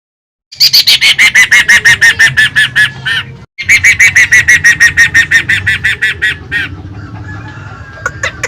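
Poksay (laughingthrush) calling in fast, loud runs of repeated notes, about eight a second, each note dropping in pitch. A short break comes about three seconds in, then a second run, and the notes turn quieter near the end before a new run starts.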